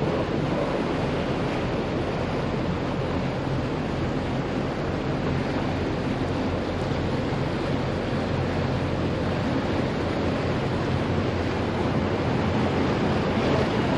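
Steady wind noise on the microphone over the low, even hum of the cruiser's idling engines.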